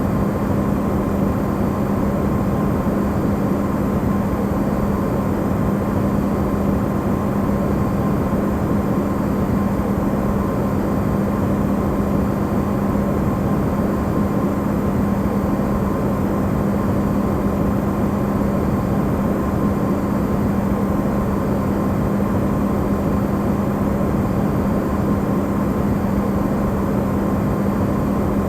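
Electrolux refrigerator running, recorded amplified: a steady, unchanging hum with a strong low tone and a fainter higher one over an even rushing noise.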